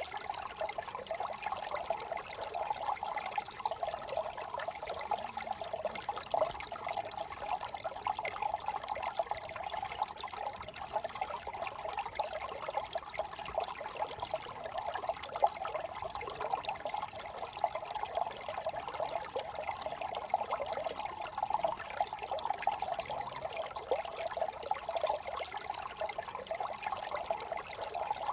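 Small brook trickling and babbling over stones, a steady run of quick little splashes.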